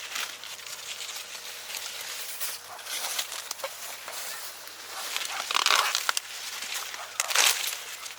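Irregular rustling and crinkling, with louder bursts about 3, 6 and 7.5 seconds in.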